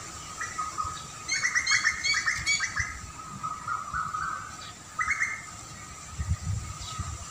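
Birdsong: a rapid chattering run of chirps starting about a second in and lasting about a second and a half, then a short burst of chirps near five seconds. A steady high tone continues underneath.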